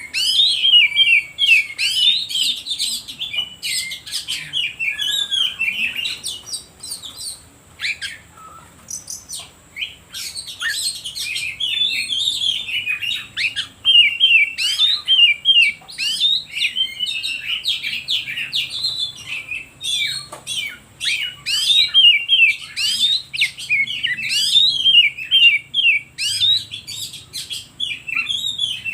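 Oriental magpie-robin (kacer) singing a long, rapid, varied run of chirps and whistles, thinning out briefly about seven seconds in before picking up again.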